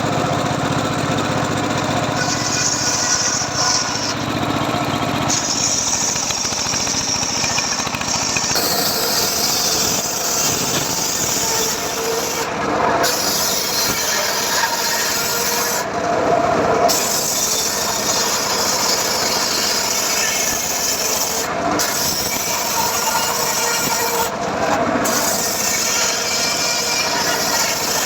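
Homemade circular saw cutting teak wood, running steadily with a loud sawing hiss that breaks off briefly a few times between passes.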